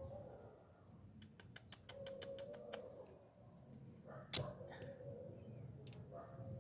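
A quick even run of about eight light clicks, about five a second, then a single sharp click a moment later and a few fainter ones, over a faint steady hum.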